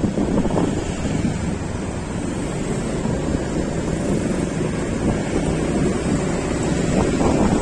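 Wind rushing over the microphone with steady engine and road noise from a moving vehicle.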